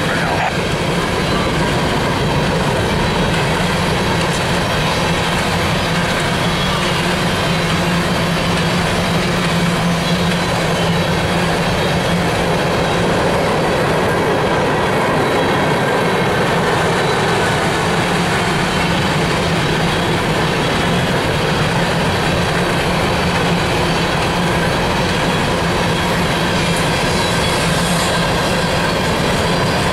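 Empty steel coal hopper cars of a unit freight train rolling past: a steady, unbroken noise of wheels on the rails.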